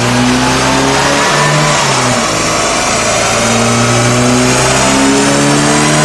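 Restored 1960s Mini's BMC A-series four-cylinder engine running under load on a rolling road, the revs climbing, dropping about two seconds in, then climbing steadily again, with a high whine rising alongside.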